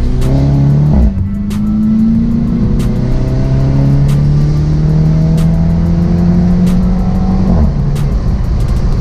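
Mini Cooper S's turbocharged four-cylinder engine with a Remus cat-back exhaust, accelerating hard. The pitch drops sharply at a gear change about a second in, then climbs through a long pull in the next gear, with another drop near the end. The exhaust note is loud and deep.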